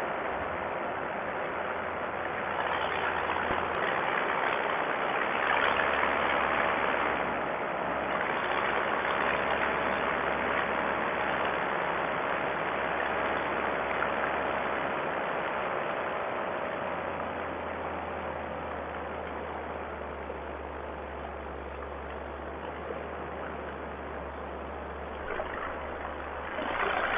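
Vittorazi Moster 185 two-stroke paramotor engine running in flight, a steady drone with propeller and wind noise whose pitch drifts slightly and eases off a little in the second half. The carburettor is still not tuned right after the engine's rebuild.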